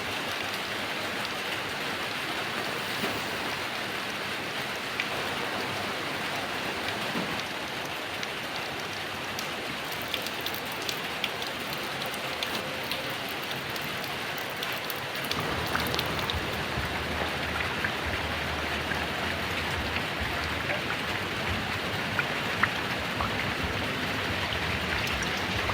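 Heavy rain falling steadily, with a dense hiss and scattered sharper drop ticks. About 15 seconds in, a steady low rumble joins underneath and continues.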